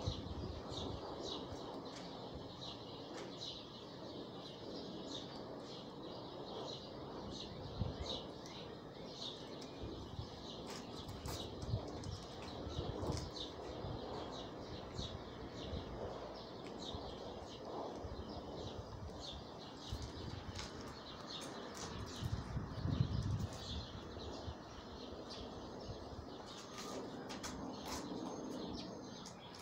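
Small birds chirping repeatedly in short high notes, over a low steady background with a few soft low thuds.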